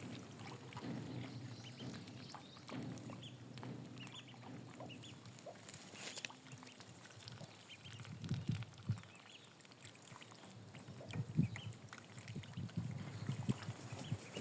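Ducks on water: faint water sounds with a low murmur for about the first half, and scattered short, high calls.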